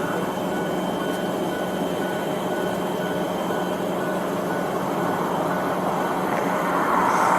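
Steady hum of idling engines and road traffic, with a vehicle passing and getting louder near the end.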